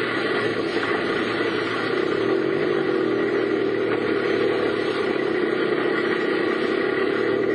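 Car driving along, with steady engine and road noise.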